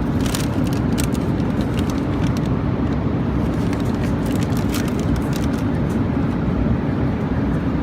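Steady low rumble of an airliner cabin in flight, the engine and airflow drone holding an even level, with a few faint clicks over it.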